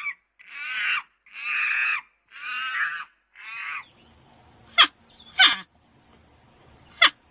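An animal calling four times in a row, each call harsh and about half a second long, the last one fainter. Three sharp clicks follow in the second half.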